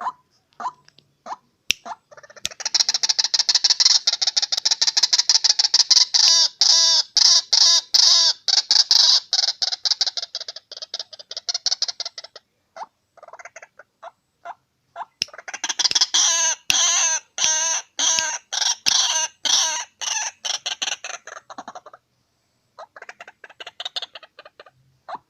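A bird, known in Indonesia as the truwok, calling in long, fast chattering runs of rapid repeated notes. There are two bouts of several seconds each, with a short gap of scattered single notes between them and a weaker run near the end.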